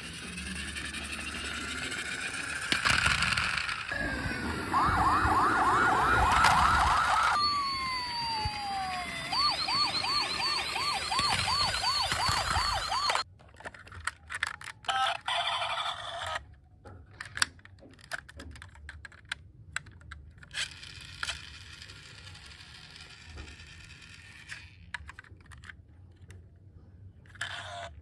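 Electronic toy emergency-vehicle siren sounding in a fast yelp, broken by a falling tone, with a second, higher wavering siren joining. It cuts off abruptly about halfway through, followed by scattered clicks and rattles of plastic.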